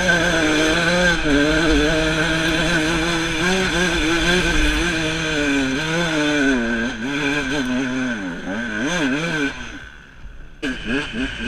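Two-stroke enduro motorcycle engine under way, revs held high and fairly steady at first. From about seven seconds in, the revs rise and fall repeatedly, then drop briefly before picking up again near the end.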